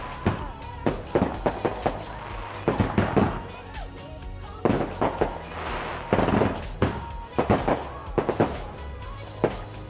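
Fireworks going off: irregular clusters of sharp bangs and crackling reports, several a second at their densest, with short lulls between volleys.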